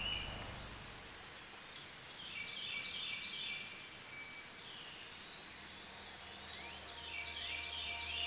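Woodland ambience with a bird singing a short phrase of quick high chirps, twice, a few seconds apart. A low, steady musical drone comes in about two-thirds of the way through.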